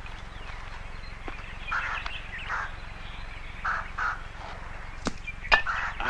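Birds calling in an old film's beach ambience, in two short clusters, over a steady low hum and hiss from the soundtrack. A couple of sharp clicks come near the end.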